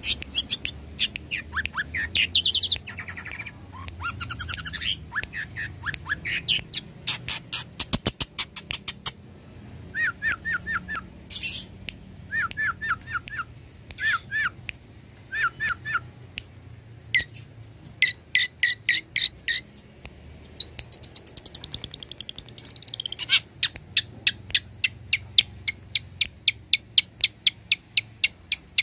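Long-tailed shrike (cendet) in full song: a busy, varied run of high whistles, quick trills and repeated sharp notes, ending in a fast, even series of sharp notes.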